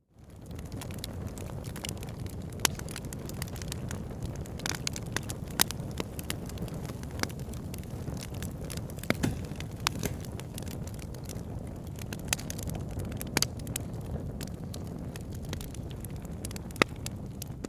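Wood fire burning in a fireplace: a steady low rumble of flames with frequent sharp, irregular crackles and pops. The sound fades up from a brief gap at the very start.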